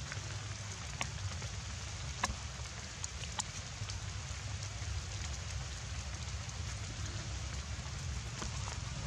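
Steady rain falling, a constant hiss with a low rumble underneath and a few louder single drops landing, the loudest about two seconds in.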